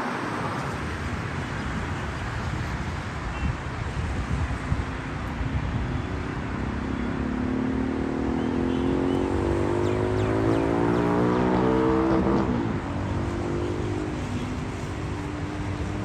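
A motor vehicle's engine accelerating over a steady low road rumble. Its pitch climbs for several seconds, drops suddenly about twelve and a half seconds in, then climbs again.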